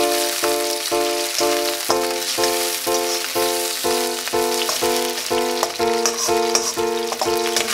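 Shrimp frying in hot oil in a pan, a steady crackling sizzle. Background music with a quickly repeated chord plays over it.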